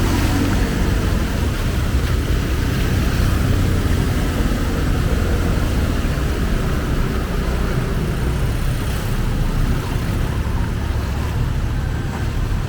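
Heavy rain falling steadily, with the continuous low rumble of motor vehicle engines in the traffic.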